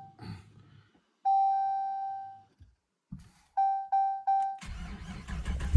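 Dodge Challenger R/T's dashboard warning chime sounds one long tone, then three quick chimes. Near the end a low rising rumble of the starter cranking begins for a cold start.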